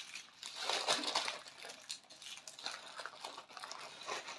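Small plastic bags of diamond-painting drills crinkling and rustling as they are handled, with irregular crackles.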